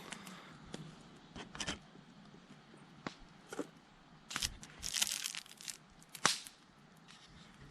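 Irregular rustling, crinkling and small clicks of things being handled, with a longer burst of rustling about four to six seconds in and a sharp snap just after.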